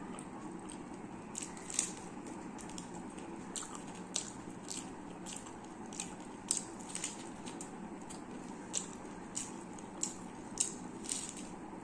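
Close-miked eating: wet mouth clicks and smacks of someone chewing curry-soaked prawn and rice, with squishing of the food in the fingers, over a steady low background noise.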